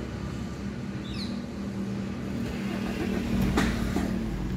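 Maruti Suzuki Swift four-cylinder diesel engine idling steadily, just started after its fuel filter was changed and air bled from the diesel line. A single knock sounds near the end.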